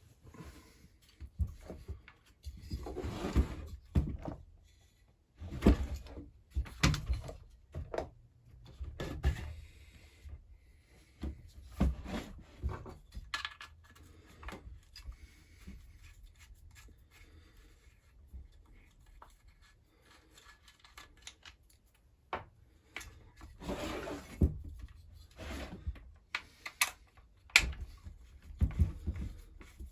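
Intermittent workshop handling noise from a chainsaw teardown: knocks, clicks and short rubbing sounds of saw parts and tools being set down and moved, with quiet gaps between.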